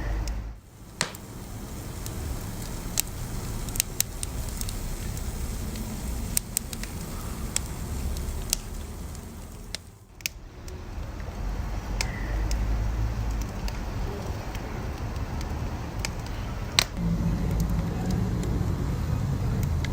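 Wood fire burning with a steady low rumble of flames and scattered sharp crackles and pops from the burning wood. The sound dips briefly about half a second in and again around ten seconds in.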